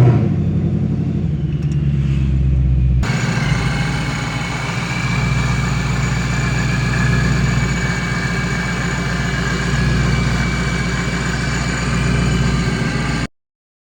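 Supercharged 5.0 V8 of a 2016 Mustang GT running steadily, with the engine's tone rising and falling a little. About three seconds in the sound changes abruptly to a brighter, hissier version, and it cuts off suddenly near the end.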